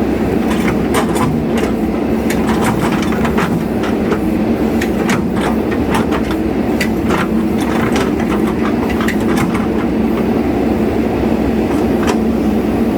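Heavy diesel engine of a JCB 3DX Super backhoe loader running steadily under work, with a run of irregular metallic clanks and knocks from the machine that thin out near the end.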